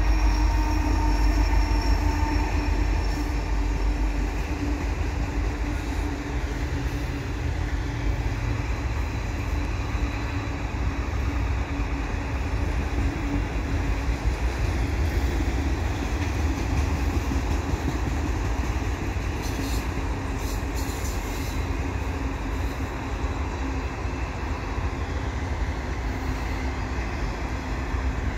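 Freight train of autorack cars rolling past: a steady rumble of steel wheels on rail, heaviest in the first few seconds.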